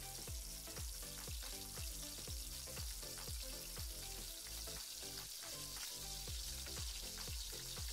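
Minced garlic and ginger sizzling in hot oil in a non-stick pan as they are stirred. Soft background music with a steady beat of about three strokes a second runs underneath.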